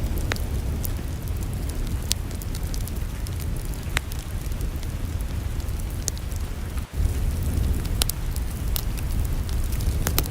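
Wood fire in a fireplace crackling: scattered sharp pops and snaps over a steady low rumble, with the sound briefly dropping out about seven seconds in.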